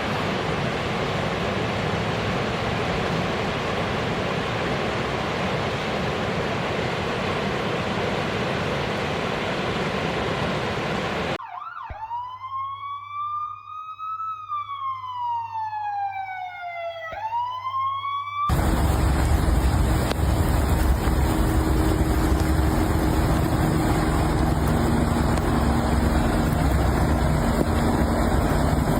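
A steady rushing noise, then an emergency siren wailing for about seven seconds: it rises, falls slowly, and sweeps sharply back up. Then comes a louder rushing noise.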